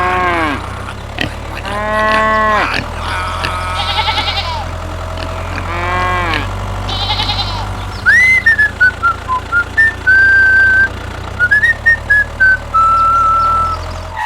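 Sheep bleating several times, each call rising and falling, over a steady low engine-like hum. From about halfway through, a high whistled tune of short stepping notes and a few held ones takes over.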